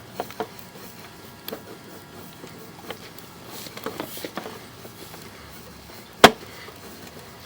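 Scattered light clicks and knocks over a faint steady hiss, with one sharp, much louder knock about six seconds in.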